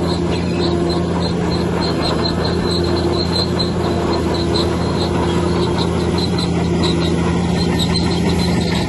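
Bulldozer's heavy diesel engine running steadily under load, a constant low drone. Faint high-pitched chirps repeat over it, a few times a second.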